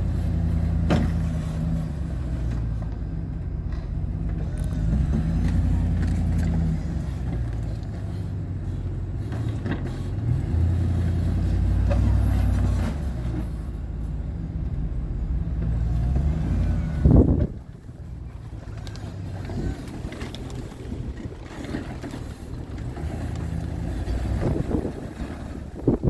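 Truck engine running, its pitch rising and falling with the throttle. A loud clunk comes about two-thirds of the way in, after which the engine sound is quieter, and a smaller knock comes near the end.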